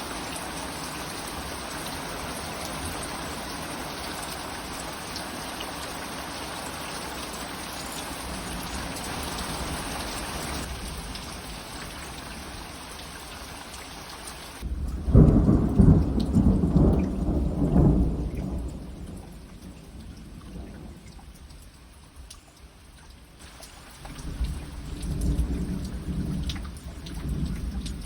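Thunderstorm: steady heavy rain, then about halfway through a loud, low thunder rumble that lasts several seconds and dies away. A second, quieter roll of thunder comes near the end.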